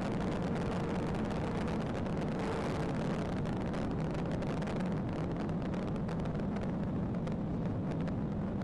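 Steady vehicle running noise: a low hum under an even rush, with scattered faint clicks.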